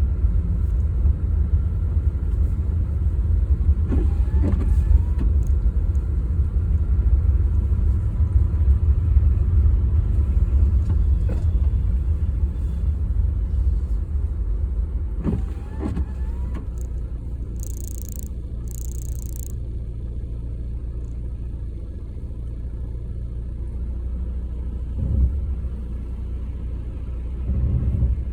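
Car driving, heard from inside the cabin: a steady low road and engine rumble, with a few faint short squeaks and two brief high hisses about two-thirds of the way through.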